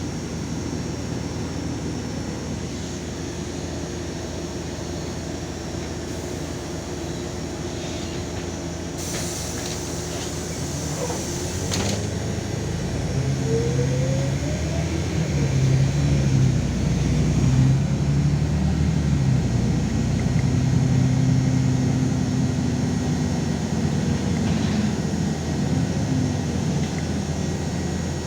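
LiAZ 5292.22 city bus heard from inside the cabin: the engine runs steadily, then about twelve seconds in it gets louder and its note and a drivetrain whine rise as the bus pulls away and picks up speed, settling again near the end.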